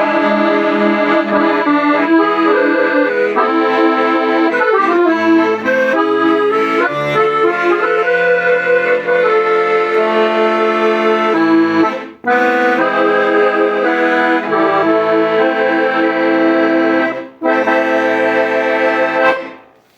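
Hohner Morino IV S accordion playing a melody over held chords. The playing stops briefly twice, and the last notes die away near the end.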